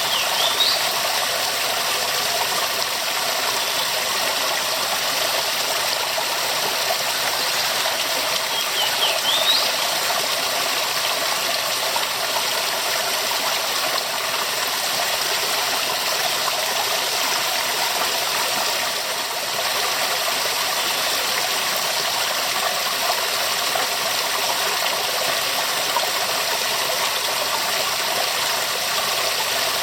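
Waterfall rushing steadily, an even hiss-like roar of falling water. Two brief, high rising chirps sound over it, one right at the start and one about ten seconds in.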